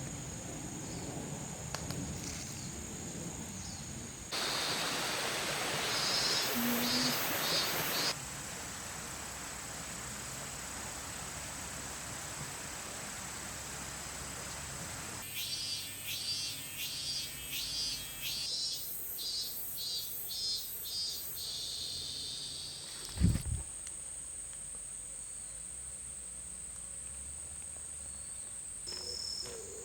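Insects singing: a steady high-pitched drone, with bursts of rhythmic chirping in the middle stretch, over a background hiss that swells for a few seconds early on and shifts abruptly at several cuts. A single low thump a little over 23 seconds in.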